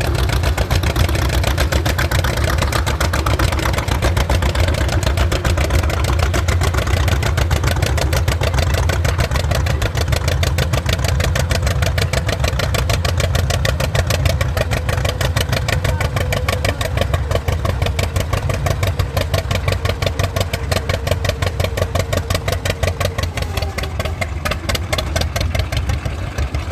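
Vintage tractor engine running steadily, with a rapid, even firing beat.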